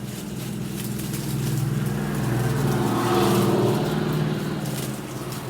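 An engine running, with a steady hum that grows louder towards the middle and fades again near the end, like a motor vehicle passing by.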